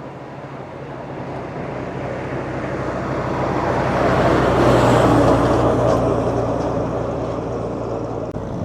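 A motor vehicle's engine passing close by, a steady low hum that grows louder to a peak about halfway through and then fades away. It cuts off suddenly near the end.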